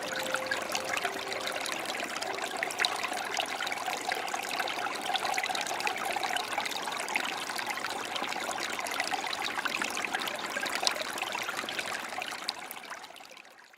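Forest creek trickling and splashing steadily over stones, with the last handpan notes ringing away in the first couple of seconds. The water sound fades out near the end.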